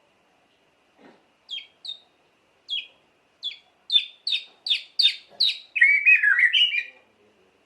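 White-rumped shama singing: a run of about ten sharp down-slurred whistled notes that come faster and louder, ending in a quick jumbled warbling phrase.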